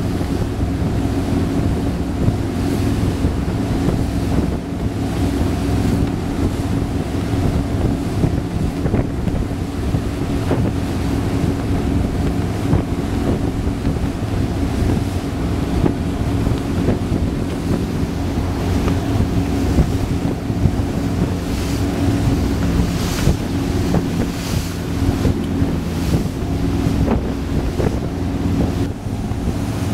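Carver 3207 motor cruiser underway: its engines drone steadily, while wind buffets the microphone and water rushes past the hull.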